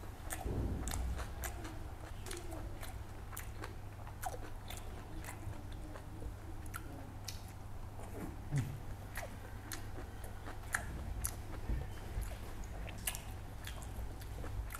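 Close-miked chewing and lip-smacking of a person eating rice and fried fish by hand, with many short, sharp, wet mouth clicks at an uneven pace.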